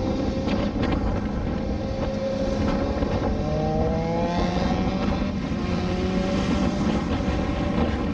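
Motorcycle engine running under way with heavy wind and road rush, its revs climbing gradually in the middle.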